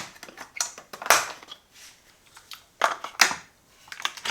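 Handling noise from the coffee machine being readied for another cup: about half a dozen irregular clicks and scraping, crunching rustles of plastic parts. Two longer scrapes, about a second in and about three seconds in, are the loudest.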